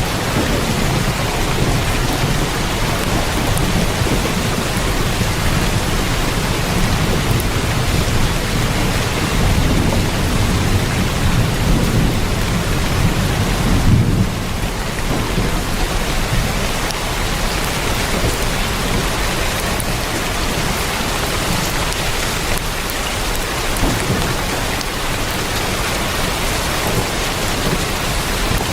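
Heavy rain drumming steadily on a tin roof, with a low rumble of thunder that swells and then drops away about halfway through.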